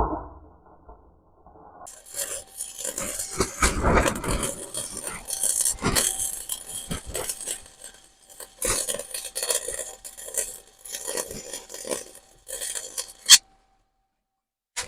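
Flux-core wire welder arc crackling and sizzling in runs with brief pauses, laying welds on a steel motor mount bracket. Starts about two seconds in and cuts off abruptly near the end.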